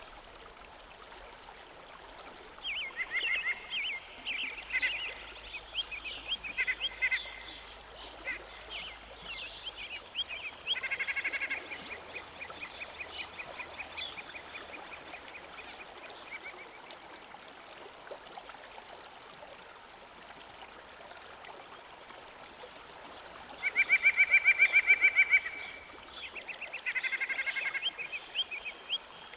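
Birds singing: bursts of short high chirps, then rapid trills, with the loudest rapid stuttering call near the end.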